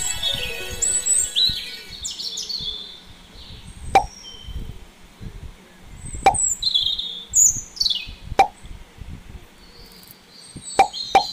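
Short, cartoon-like popping sound effects, one for each small white pebble set down in the scene. Three pops come about two seconds apart, then a quick run of pops starts near the end. Birds chirp in the background.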